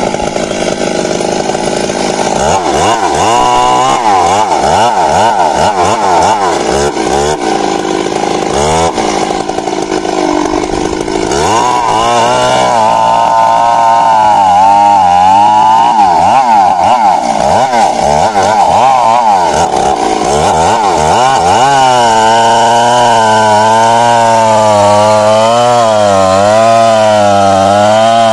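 Stihl MS 382 two-stroke chainsaw running at high speed under load, cutting wood, its engine pitch wavering up and down as the chain bites and frees in the cut; the pitch swings grow wider in the last few seconds.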